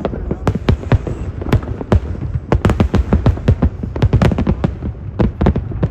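Fireworks display: rapid, irregular bangs and crackles of exploding aerial shells, several a second, over a steady low rumble.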